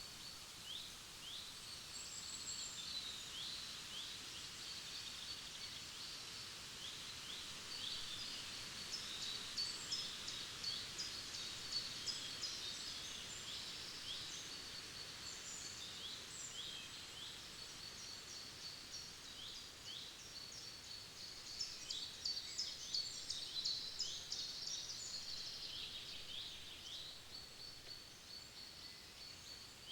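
Forest birds singing: many short, high chirps and quick trills from several birds, busiest around ten seconds in and again past twenty seconds, with a thin high note held on and off, over a faint steady background hiss.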